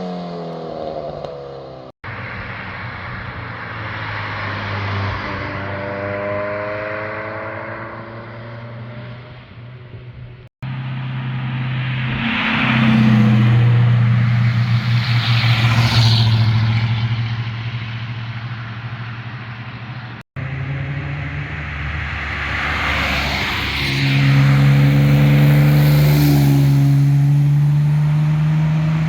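Cars accelerating hard past on a mountain road, their engines revving up through the gears and exhaust loud as each goes by. Several short flyby clips are joined by abrupt cuts, with the loudest passes about halfway through and near the end.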